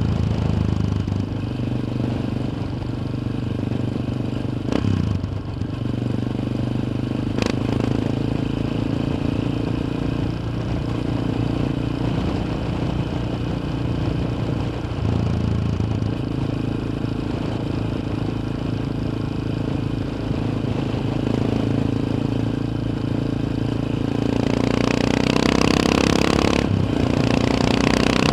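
Yamaha XT 600's single-cylinder four-stroke engine running under way, its pitch stepping up and down with throttle and gear changes, with a couple of short sharp clicks. Near the end it revs harder and a loud rush of wind noise builds over it.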